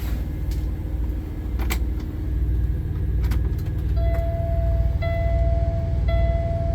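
A Kenworth T680's PACCAR MX-13 inline-six diesel starting and settling into a steady idle, with a few key and switch clicks in the first seconds. From about four seconds in, a dashboard warning chime beeps about once a second.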